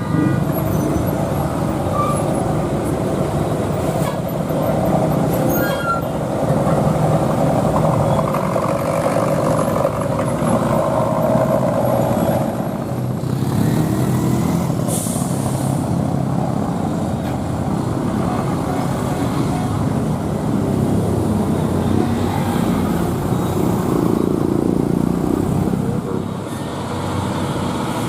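Heavy truck diesel engines running in slow, jammed traffic, with a short hiss about fifteen seconds in.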